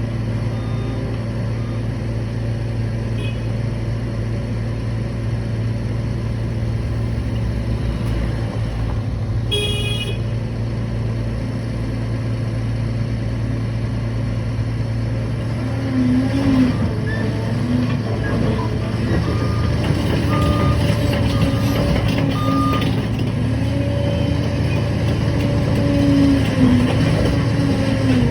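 Liebherr PR 746 crawler dozer's diesel engine running steadily at working speed. About ten seconds in there is a brief high beep. In the second half the machine's pitch wavers up and down as the load changes.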